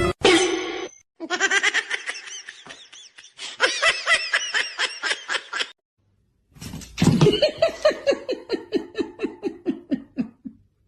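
A person laughing hard in two long bouts of quick rhythmic ha-ha pulses, about three or four a second, the second bout sliding slowly down in pitch.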